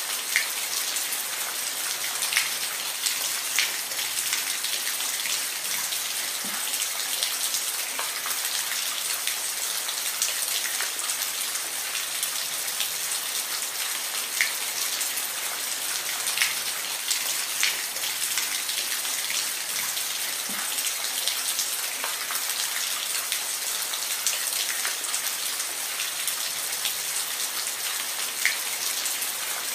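Steady rain, an even hiss with scattered individual drops ticking on a surface.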